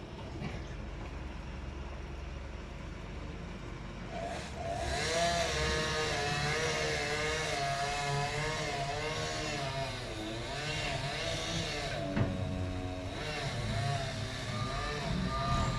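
Engine of heavy machinery working over a steady low rumble, its revs rising and falling repeatedly from about four seconds in.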